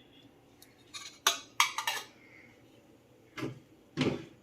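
Food containers being handled in a fridge: a few sharp clicks and clatters about a second in, then two duller knocks near the end as they are set down.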